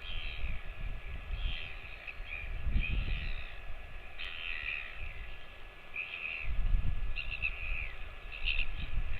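Bird calls, many short chirping notes in quick succession, over irregular low rumbling surges.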